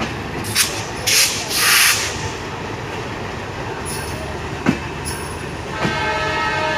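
Diesel-hauled passenger train running, a steady rumble with short bursts of hiss in the first two seconds and a couple of sharp clicks. About six seconds in, a locomotive horn starts sounding and holds.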